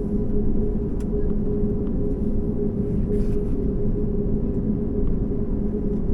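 Steady cabin rumble inside a COMAC C919 airliner taxiing after landing, with a constant hum from the engines and air systems running over it.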